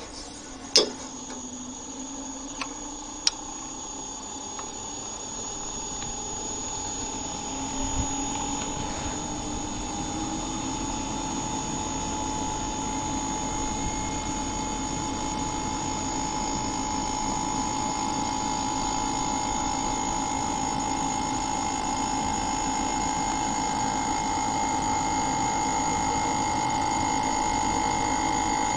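A motor starting up: a sharp click under a second in, then a hum that rises in pitch and grows louder over about ten seconds, then runs steadily. This fits an inverter air conditioner ramping up its speed after power-on.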